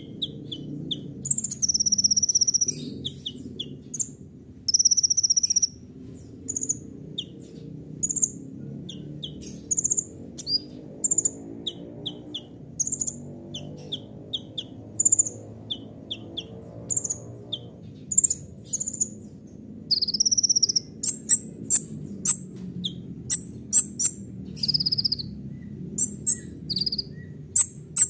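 Kolibri ninja (a sunbird) singing: a string of sharp, high chirps and quick notes, broken by three trilled rolls lasting about a second each, near the start, about five seconds in and about twenty seconds in. A steady low hum runs underneath.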